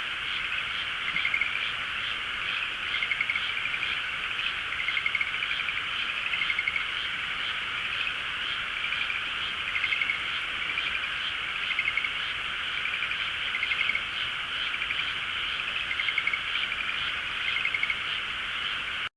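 A dense chorus of many frogs calling together: a steady mass of calls with louder pulsed trills breaking out about once a second.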